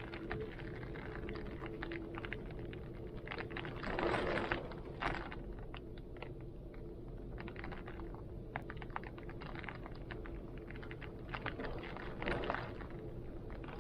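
Heavy rain, a dense patter of drops, with wind blowing; the wind swells louder twice, about four seconds in and again near the end.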